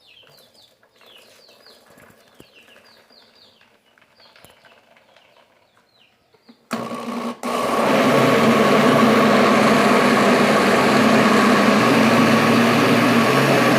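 Faint bird chirping, then about halfway through an electric blender starts with a loud, steady whir, blending fresh-cut corn kernels with the cake batter ingredients. It catches briefly just after starting, then runs evenly.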